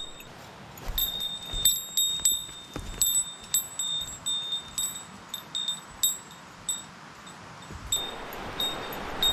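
A small metal bell jingling, struck irregularly again and again with the same ringing tone each time. A steady rushing noise grows louder near the end.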